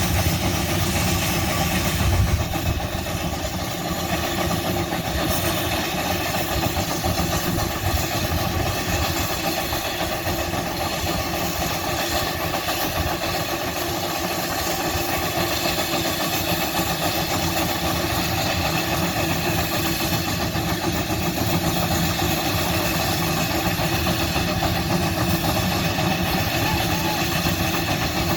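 A large old engine running steadily, with a brief louder thump about two seconds in.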